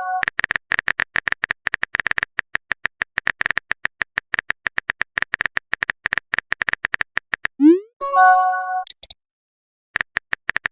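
Rapid keyboard-typing sound effect, a fast run of clicks, followed about eight seconds in by a rising swoosh and a chiming message-sent notification tone. The typing clicks start again near the end.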